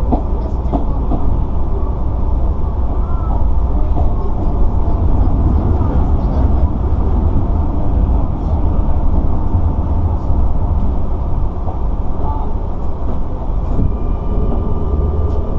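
Sotetsu 9000 series train running, heard from inside the passenger car: a loud, steady low rumble of the car and its wheels on the track. A faint steady whine comes in near the end.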